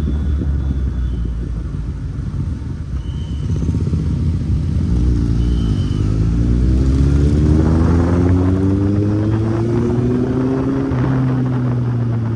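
Kawasaki Z800's inline-four engine running under way. Its pitch dips briefly about five seconds in, then climbs steadily as the bike accelerates, and falls sharply at an upshift about eleven seconds in.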